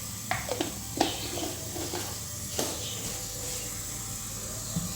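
Coconut oil heating in a pan on the stove with a faint steady sizzle. A few light knocks, three in the first second and one more about two and a half seconds in.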